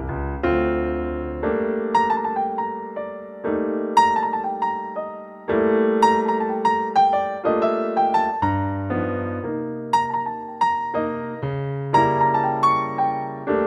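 Solo piano background music: a slow, gentle piece of single melody notes over repeated chords, each struck note ringing out and fading.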